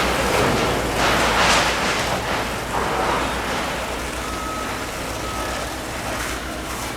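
A steady rushing hiss over a constant low engine hum, with louder surges of rushing early on and two short high beeps about four and five seconds in.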